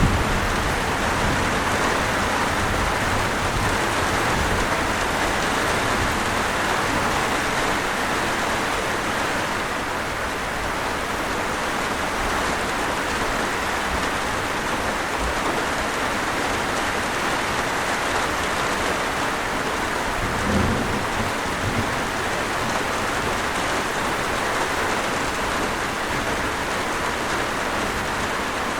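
Steady, even rain hiss of heavy rainfall. A brief low thump sounds about two-thirds of the way through.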